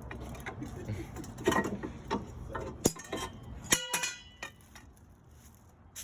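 Metal tools and parts clinking and knocking, with a sharp click about three seconds in and a clink that rings on briefly just before four seconds in.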